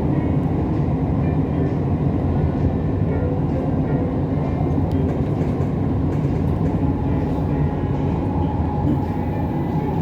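Siemens Inspiro metro train running between stations, heard from inside the car: a steady rumble of wheels on rail with a faint whine above it.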